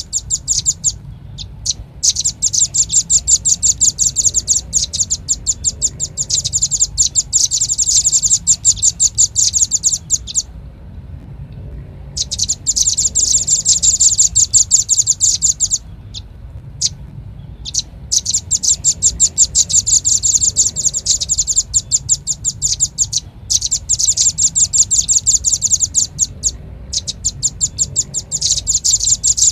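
Velvet-fronted nuthatch calling, from a bird-lure recording: long runs of rapid, high-pitched repeated notes broken by short pauses, over a faint low hum.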